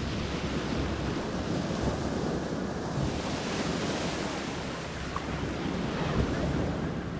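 Wind blowing across the microphone over the steady wash of sea surf.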